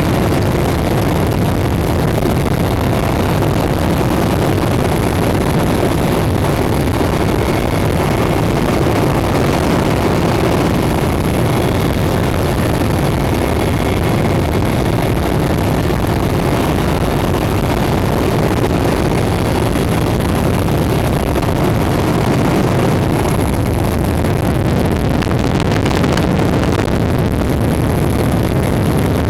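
Steady, loud cabin noise of a Mi-8 helicopter in flight: the dense drone of its twin turbine engines and rotor, with a faint steady high whine running through it.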